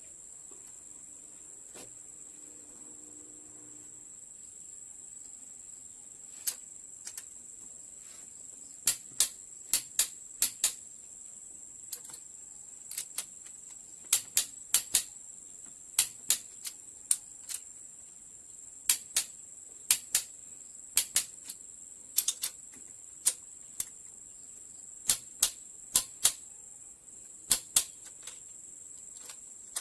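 Irregular sharp metallic clicks and taps of hand tools at work on the engine, beginning a few seconds in and often coming in quick pairs, over a steady high-pitched hiss.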